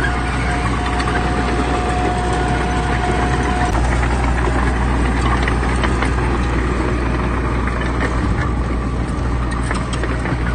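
Heavy diesel earthmoving machinery, a bulldozer or dump truck, running with a steady low engine drone. A thin steady whine sits over it until a little under four seconds in, then stops.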